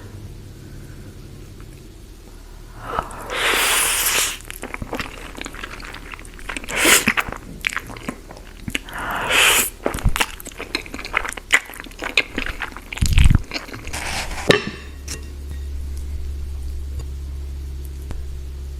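Close-miked eating of noodles and spring rolls: chewing with sharp crunches and wet clicks, broken by three longer noisy bursts typical of slurping noodles, over a low steady hum. The eating stops about four seconds before the end, leaving only the hum.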